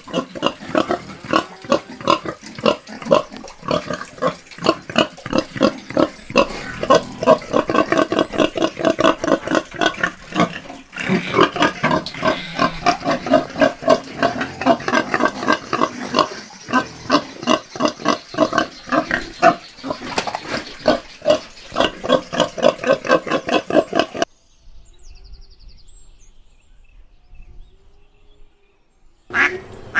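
Pigs grunting in rapid, overlapping grunts, several a second, cutting off abruptly about 24 seconds in.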